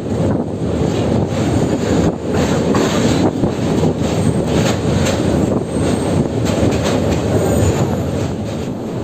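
Passenger train running at speed, heard from on board: a steady rumble of wheels on track with a quick series of clicks from the rail joints.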